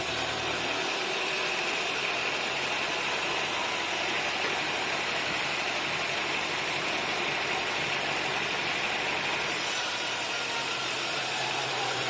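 An engine running steadily at an even speed, with a continuous hiss and no breaks.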